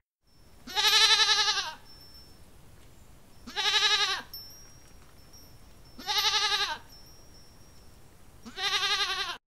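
Goat bleating four times, each call about a second long with a quavering, wavering pitch.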